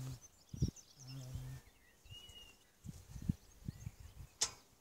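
Scattered bird chirps and one short whistled bird note about two seconds in, over several dull low thumps on the microphone and a sharp click near the end.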